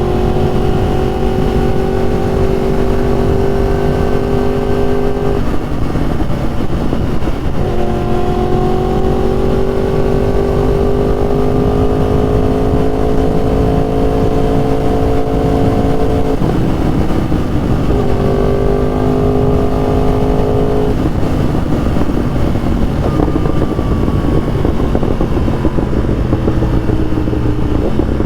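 Yamaha R1 sport bike's inline-four engine pulling at a steady throttle, its note slowly climbing in pitch. Three times the note drops away under wind noise for a second or two, then comes back lower and climbs again. Wind rushes over the microphone throughout.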